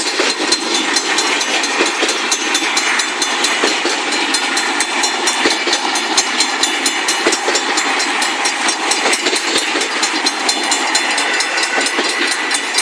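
Long freight train rolling past at a grade crossing: a steady rumble of the cars with many quick wheel clicks and rattles over the rail joints.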